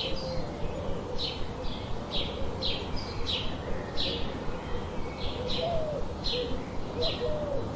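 Birds calling: short, high, downward-sweeping chirps repeated about twice a second, with fainter, lower warbling calls joining in about halfway through, over a steady low background hiss.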